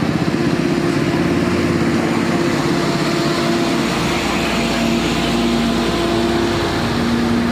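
A motor vehicle engine running at steady revs, with a low hum that holds its pitch and shifts slightly about halfway through.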